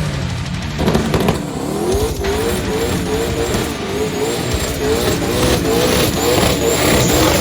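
A car engine revved up and down over and over, about twice a second, with a high whistle rising and falling with each rev over a steady hiss, as of a car doing a burnout.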